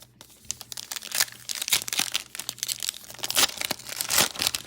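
Plastic trading-card pack wrapper being crinkled and torn open by hand, a dense run of sharp crackles.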